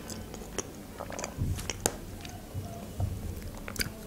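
Close-miked chewing of a chocolate-glazed curd cheese bar, with scattered sharp mouth clicks and a few soft low thumps, and a bite into the bar near the end.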